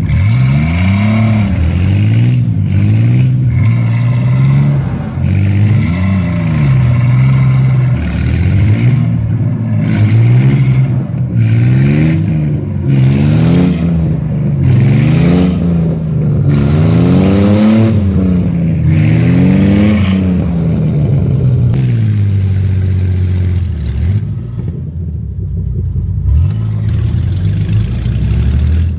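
Engine of the 6x6 S10 centipede truck revving up and down again and again as it labours over a root stump, wheels spinning in place. Near the end the engine settles to a steadier, lower run with a hiss.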